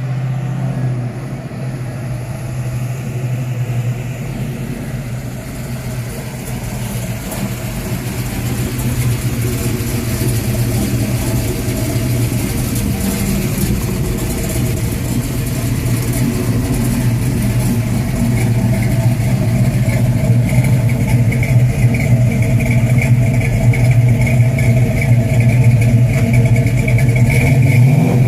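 Muscle car engine running steadily at idle, a deep even note that slowly grows louder.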